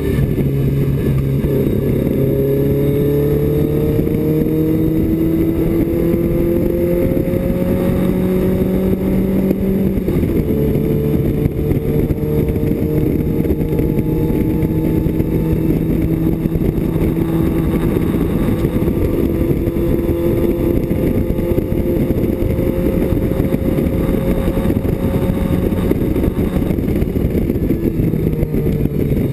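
BMW 2002 race car's four-cylinder engine heard from inside the cockpit, running hard under load. Its pitch climbs slowly, steps down about ten seconds in, climbs again and falls near the end.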